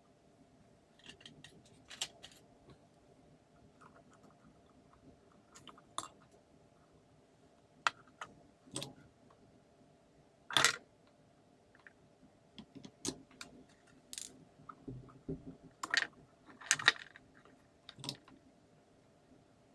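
Scattered clicks, taps and light rattles of small plastic parts and hand tools being handled while a Makita ML807 18V lantern is taken apart for a switch replacement, with the loudest clatter about ten seconds in and a faint steady hum underneath.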